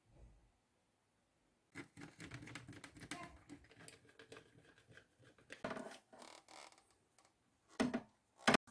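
Hands working on a small plastic toy washing machine during repair: a run of scraping, clicking and rattling of hard parts, ending in two sharp clicks.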